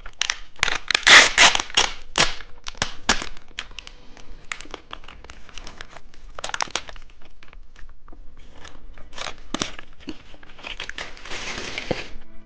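A plastic snack wrapper, on a two-colour cheese stick, crinkling and tearing as it is opened by hand. A dense flurry of crackles comes in the first couple of seconds, then scattered crinkles, and a longer rustle near the end.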